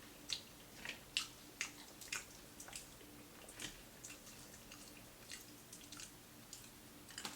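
Close-miked chewing of crispy fried whiting: irregular sharp crunches and wet mouth clicks, denser in the first couple of seconds and sparser after, over a faint steady hum.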